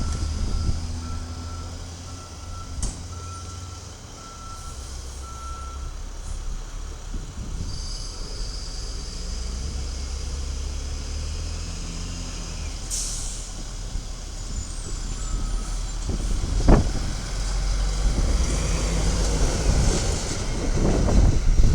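Side-loading garbage truck running, its backup alarm beeping about seven times in the first few seconds. About two-thirds of the way through comes a short air hiss, then a sharp clank and more clattering near the end.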